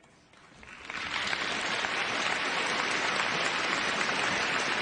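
Large audience applauding, swelling over the first second into steady, sustained clapping.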